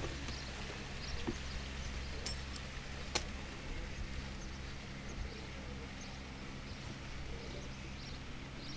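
Model train running on an outdoor garden railway: a steady low electric motor hum with a couple of sharp clicks in the first few seconds.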